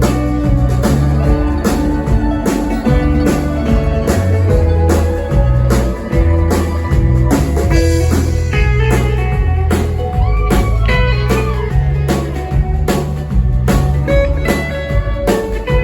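Live band playing an instrumental passage: a bass line, a steady drum beat and plucked string instruments, with a lead line of bending notes coming in about halfway through.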